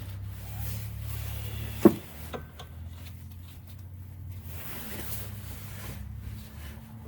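Handling of a steel sway bar link and its nuts: one sharp metallic clink about two seconds in, then a few lighter clicks, over a steady low hum.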